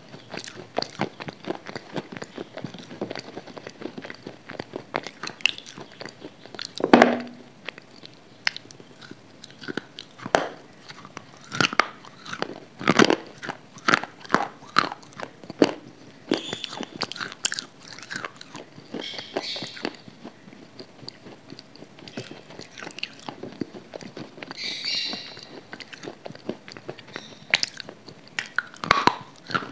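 Close-miked mouth sounds of a person biting into and chewing hard, chalky grey chunks: irregular crisp cracks and crunches, with the loudest bites about seven seconds and thirteen seconds in.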